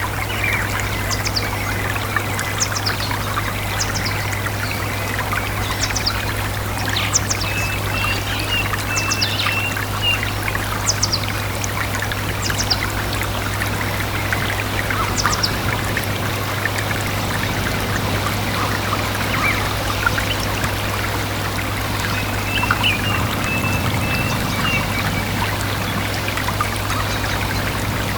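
A stream trickling and babbling steadily, with birds chirping over it: short high chirps scattered through the first half, and twice a quick run of thin repeated notes. A steady low hum lies underneath.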